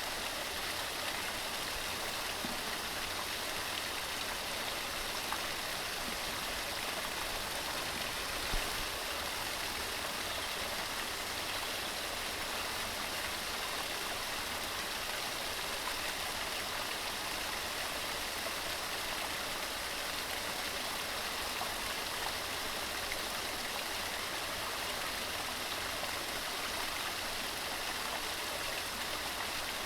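Waterfall tumbling over rocks: a steady, even rush of falling water that does not change, with one brief low thump about eight and a half seconds in.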